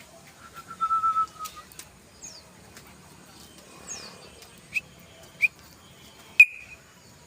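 Yellow-vented bulbul calling: a held whistled note about a second in, then two short falling high notes and three short sharp notes near the end.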